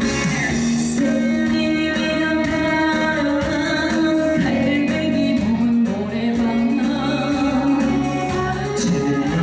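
A female trot singer singing a song with instrumental accompaniment, holding long notes over a steady backing.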